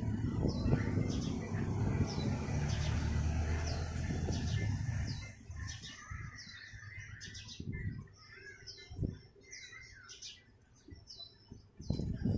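A bird chirping over and over, short falling high chirps about twice a second, over a low rumble that fades out about five seconds in.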